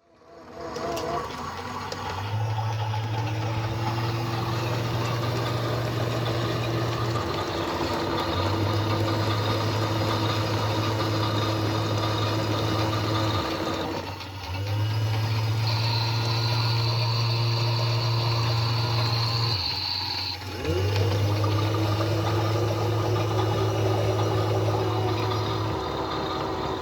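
Washing machines running: a drum motor hums in spells of about five seconds with a short pause between each, over a steady wash of water noise.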